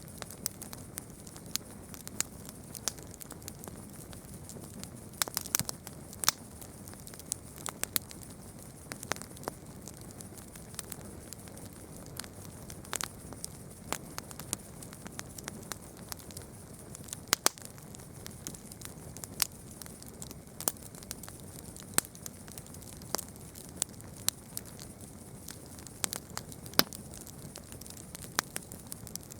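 Campfire burning and crackling, with irregular sharp pops and snaps of burning wood, several a second at times, over a steady soft hiss.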